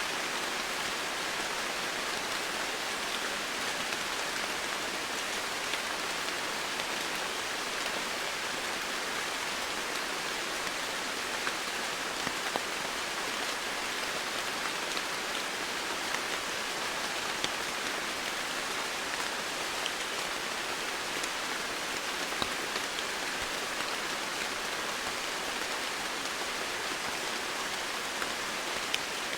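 Steady rain falling on foliage, a constant even hiss with scattered individual drops ticking through it.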